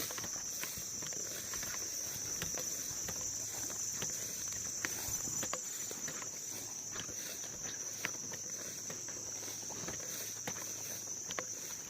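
Steady high-pitched insect chorus, with scattered sharp clicks and ticks over it.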